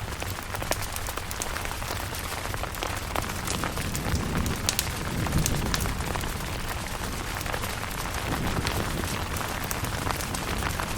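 Steady rain falling on a camping tent, an even hiss with many sharp individual drop hits. A low rumble swells briefly about four seconds in.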